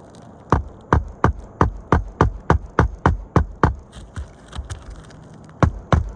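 Hand hammer nailing down asphalt roof shingles during a shingle repair: quick, even strikes about three a second, a short pause with a couple of light taps, then hammering again near the end.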